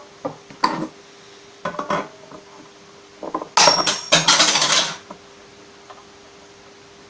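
Fret wire being snipped with clippers and the cut pieces handled: a few short metallic clicks and clinks, then a louder scraping, rustling handling sound lasting over a second about three and a half seconds in.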